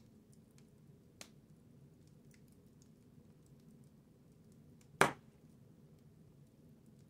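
Wood fire crackling in a fireplace: a soft steady burn with scattered faint ticks, a small snap just after a second in, and one loud sharp pop about five seconds in.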